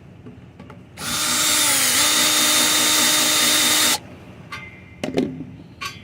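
Handheld power drill driving a screw out for about three seconds. Its motor whine dips in pitch briefly under load, then steadies before it stops. A couple of short knocks follow.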